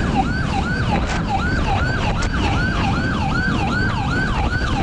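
Police motorcycle siren running in a fast repeating yelp, each cycle jumping up and sliding down about three times a second, over heavy wind and engine rumble from the moving bike.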